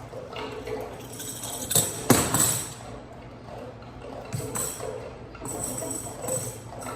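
Sparse free-improvisation music: jingling, rattling percussion shaken in a few short bursts, loudest about two seconds in, over soft held tones.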